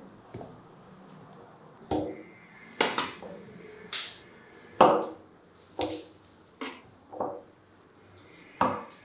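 Knife cutting raw chicken pieces on a wooden cutting board: about ten separate knocks of the blade on the board at uneven intervals, the loudest about five seconds in.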